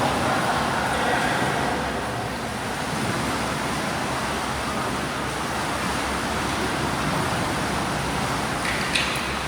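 Steady swimming-pool noise: water splashing and churning from swimmers doing breaststroke drills, with one brief sharp click near the end.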